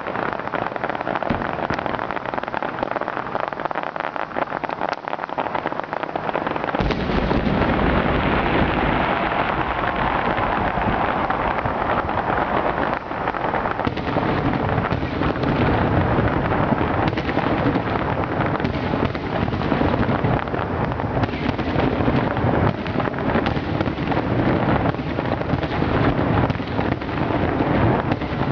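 Fireworks display going off in quick succession: dense crackling and popping with booms. About seven seconds in, the booming grows heavier and a low rumble runs on under the crackle.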